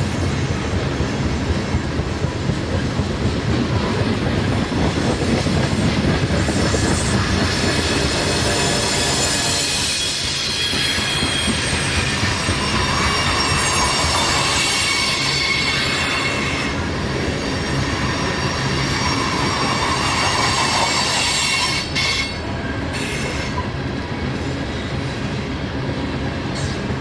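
Freight train cars rolling past on jointed-free mainline track, a steady rumble of wheels on rail with high-pitched wheel squeal rising through the middle stretch.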